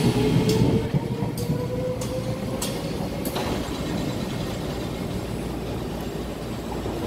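SMRT C751B electric train pulling out of the station, its last car passing close by: a slowly rising motor whine over rumbling wheels, with a few sharp wheel clicks. Loud for the first second, then dropping and fading as the train pulls away.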